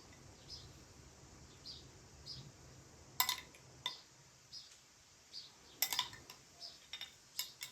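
A small bird chirping repeatedly in short high chirps, with a few sharp clinks, like cutlery or dishes, in between.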